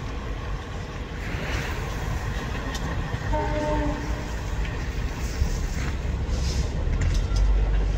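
Passenger train running away on the rails, its coach wheels making a steady rumble and clatter. About three seconds in, a short train horn blast sounds, lasting under a second.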